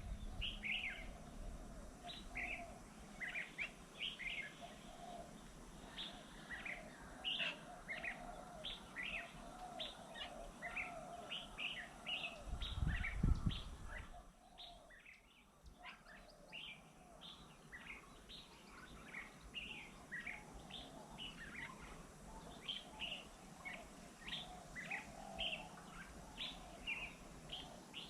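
Small birds chirping: short, high calls a few times a second, one after another, throughout. A brief low rumble about halfway through.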